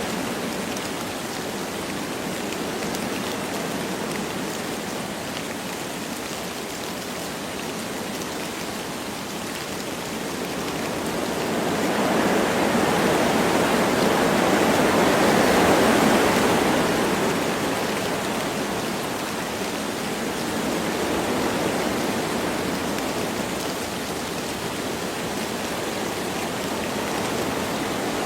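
Wind blowing through forest trees with light rain, a steady rushing hiss. A gust swells up about ten seconds in, peaks around the middle and dies back down.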